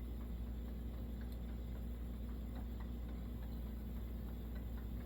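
Faint, scattered small clicks and ticks of small metal stove parts being handled and worked, over a steady low hum.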